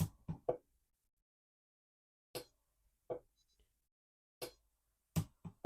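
Micro welder firing on a fine 24-gauge gold-filled jump ring at low power: about nine short, sharp snaps, irregularly spaced, with three close together at the start and three near the end.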